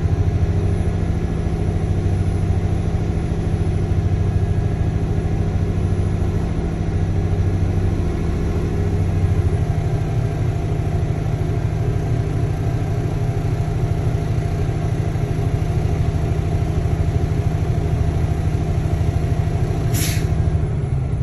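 Truck's diesel engine running steadily at about 1,500 rpm while its air compressor builds the brake air pressure. About twenty seconds in comes one short, sharp hiss of air: the governor cutting out and the air dryer's purge valve spitting, the sign that the air tanks are full. The engine then drops back in pitch.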